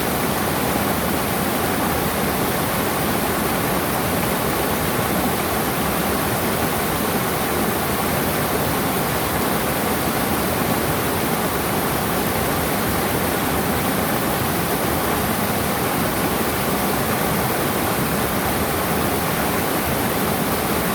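Steady rushing of running water, an even hiss that holds the same level throughout.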